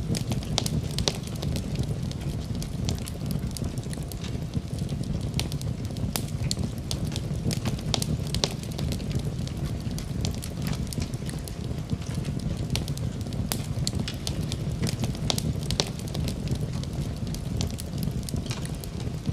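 Wood fire burning in a fireplace: a steady low rumble with many irregular sharp crackles and pops.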